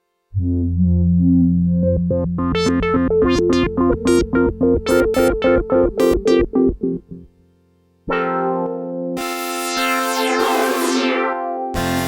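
Prophet Rev2 polyphonic analog synthesizer playing patch demos. A held chord over a bass note turns into rhythmic pulsing chords, several a second, which stop. After a short gap a bright new patch comes in with a falling sweep, and another chord starts near the end.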